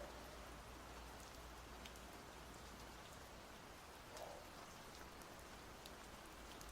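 Faint, steady rain: an even hiss with scattered single drops ticking through it.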